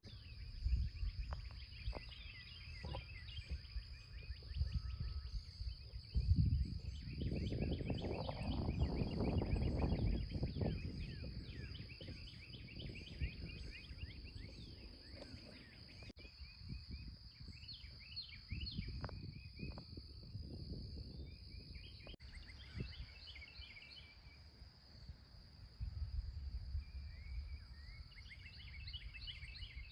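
Morning outdoor ambience: songbirds chirping throughout over a steady high insect drone, with a low rumbling noise that swells for several seconds about a quarter of the way in.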